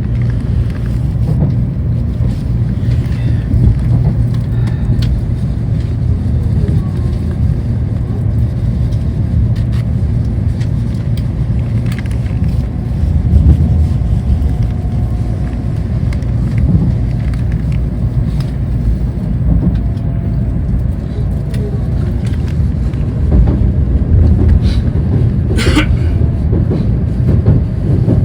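Steady low rumble of a Tokaido Shinkansen bullet train running at speed, heard from inside the passenger car. A single sharp click sounds near the end.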